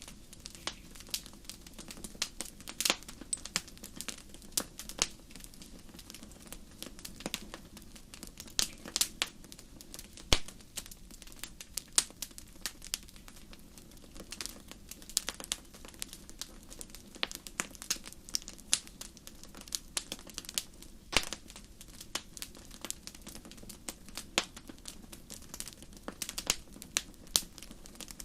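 Campfire crackling: irregular sharp pops and snaps, several a second, over a steady low background.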